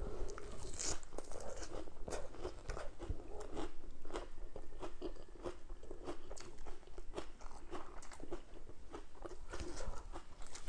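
A person chewing a mouthful of raw lettuce and shredded green papaya salad: a steady run of crisp, irregular crunches.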